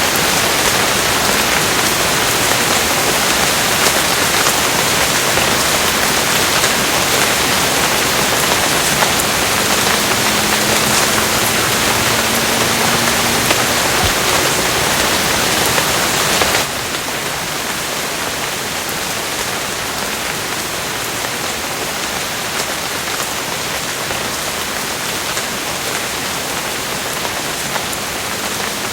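Steady, heavy rain falling on a surface. About two-thirds of the way through the rain cuts suddenly to a quieter, steady patter.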